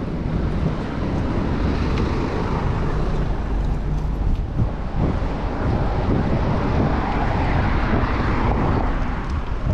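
Wind rushing over the microphone of a moving bicycle, mixed with city road traffic noise. The traffic noise swells about two-thirds of the way through.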